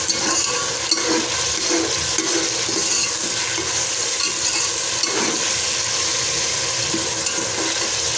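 Chopped onions and tomatoes frying in oil in a metal pot, a steady sizzle, while a metal spoon stirs and scrapes against the pot, with a sharp clink about a second in.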